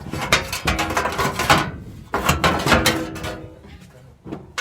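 Metal clicking and clanking in two quick runs, each about a second and a half long, from tools at work during a truck transmission installation.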